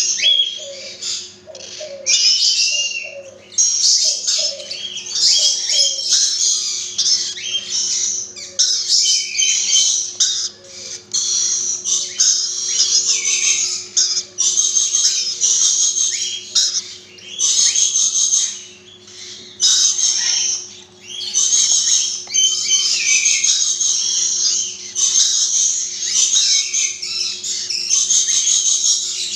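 Rainbow lorikeets chattering: a dense, nearly continuous run of rapid, shrill, high-pitched calls, over a steady low hum.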